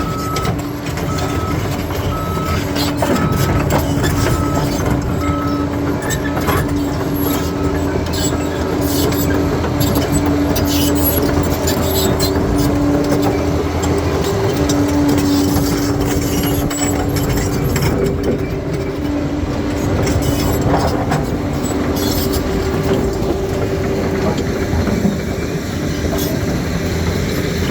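Bulldozer's diesel engine working steadily under load, with clanks and knocks as it pushes through rock and stone. A reversing alarm beeps about twice a second for roughly the first eight seconds.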